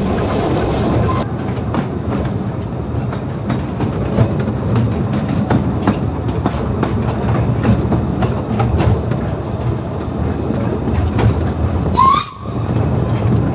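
Narrow-gauge train running, a steady low rumble with wheels clicking over the rail joints. About twelve seconds in comes a short, sharp rising squeal.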